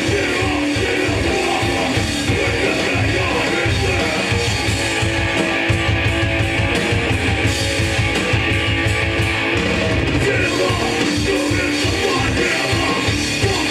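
Hardcore punk band playing live, loud and dense: electric guitar, bass and drums with crashing cymbals in the middle stretch.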